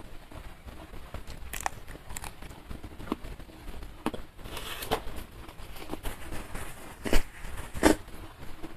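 Close-miked chewing of raw young bitter gourd: irregular crisp crunches and wet mouth clicks, with two sharper, louder clicks near the end.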